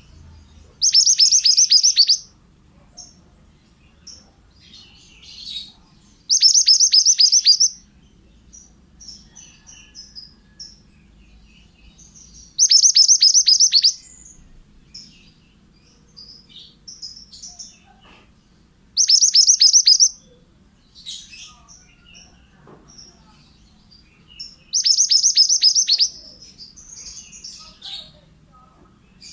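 Mantenan (pied bushchat) singing: five loud, high, rapid trilled phrases, each about a second long and repeating every six seconds or so, with faint short chirps in between.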